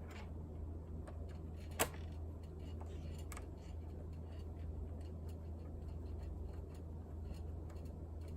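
Small plastic-and-metal clicks and taps from screws and a screwdriver being handled on a laptop's plastic case during reassembly: faint scattered ticks, with one sharp click about two seconds in. A steady low hum runs underneath.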